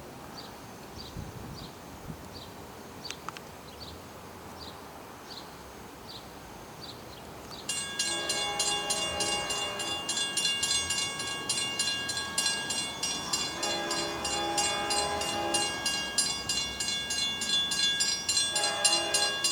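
EMD DM30AC diesel locomotive horn sounding the long, long, short, long grade-crossing signal as the train approaches, over rapidly ringing crossing bells. For the first several seconds only faint, evenly spaced bell dings are heard, before the bells and horn come in loudly.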